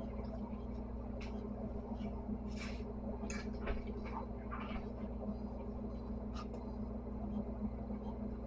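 A steady low hum with a few brief clinks and scrapes of kitchen utensils scattered through the middle.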